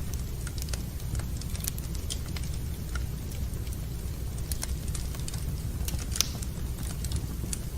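Fire crackling in a fireplace: irregular sharp pops and snaps scattered over a steady low rumble.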